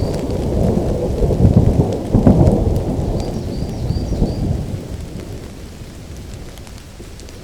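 Thunder rumbling through steady rain, loudest in the first few seconds and dying away over the second half, leaving the rain running on.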